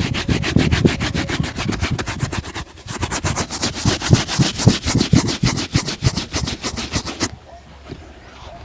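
Shoe being brushed with a shoe-shine brush in fast back-and-forth strokes, about eight or nine a second, the bristles scratching across the leather. The brushing stops about a second before the end.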